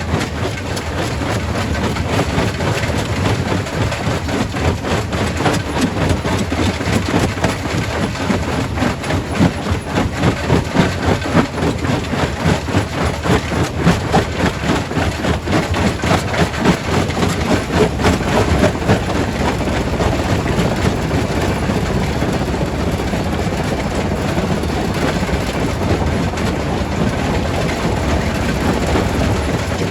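Primary rock crusher at a quarry running and breaking stone: a heavy, steady rumble with dense clatter and rattle of rock. Through the middle stretch the noise pulses in a regular beat of about two a second.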